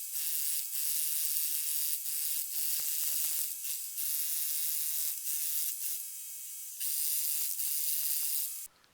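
Power demolition hammer running against concrete: a steady, high-pitched mechanical rattle with brief dips, cutting off suddenly near the end.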